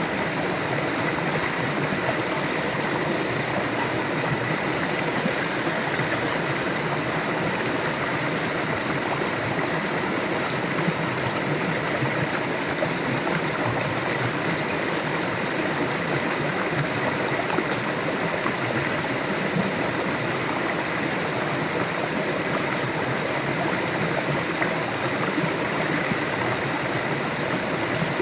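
River water flowing over stones, a steady rushing and gurgling.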